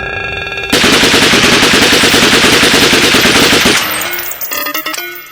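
Long burst of rapid automatic gunfire that starts under a second in and runs for about three seconds, then fades into electronic music with plucked, pitched notes.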